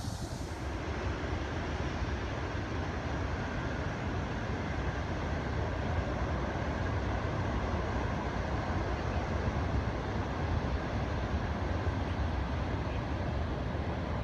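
Steady low rumble of an approaching passenger train hauled by an HXD3D electric locomotive, growing slightly louder.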